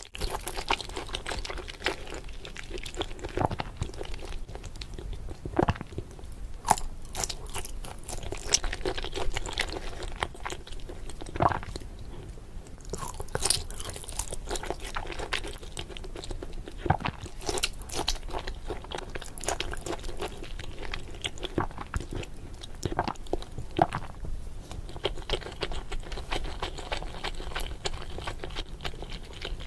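Close-miked eating sounds: a person biting and chewing peeled shrimp, wet mouth smacks with irregular sharp clicks.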